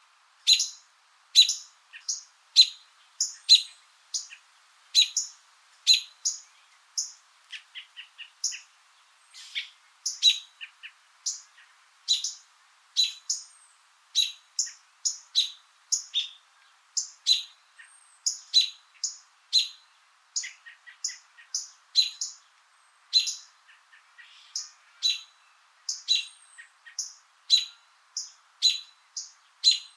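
A small bird chirping repeatedly, short sharp chirps at about two a second with a few brief pauses.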